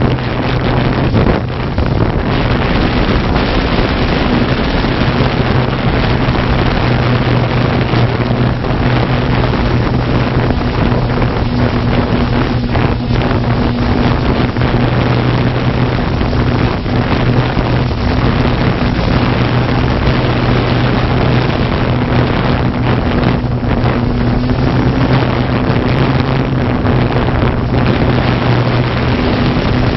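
Quadcopter drone's rotors humming steadily with a constant pitch, heard through the drone camera's own microphone, with rushing propeller and wind noise.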